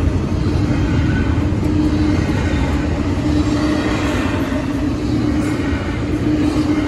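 Double-stack intermodal freight train rolling past: a steady rumble of steel wheels on rail, with a low hum that swells and fades a few times as the cars go by.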